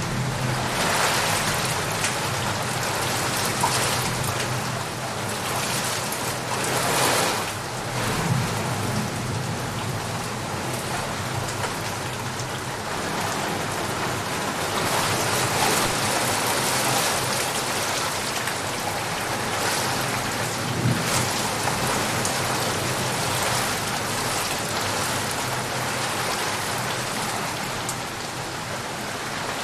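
Heavy rain falling steadily as a dense hiss of drops. It swells briefly in strength a few times.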